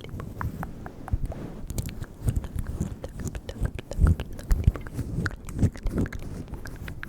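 Close-up ASMR mouth sounds: a quick, irregular run of wet clicks and smacks right at the microphone, with a few soft low thumps.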